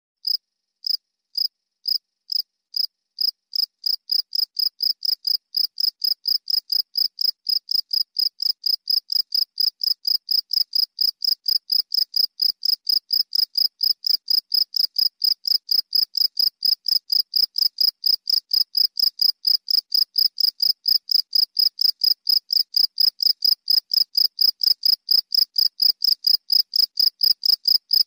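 A cricket chirping steadily: short, high-pitched chirps repeated at an even pace of about two to three a second, gradually growing a little louder.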